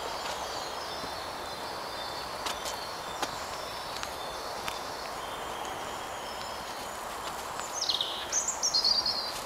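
Woodland birdsong over a steady outdoor hiss. Near the end one bird sings louder: a high whistle falling in pitch, then a run of quick high notes. A few soft clicks come earlier.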